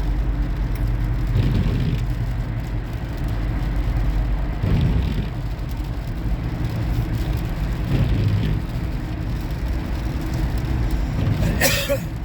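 Steady low road and engine rumble of a moving road vehicle, heard from inside as it drives along. A short, sharp noise comes near the end.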